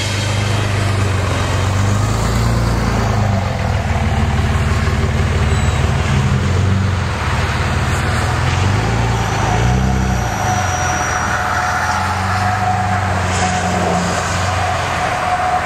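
Road vehicle engines running, a steady low hum whose pitch rises and falls a few times as the traffic pulls away.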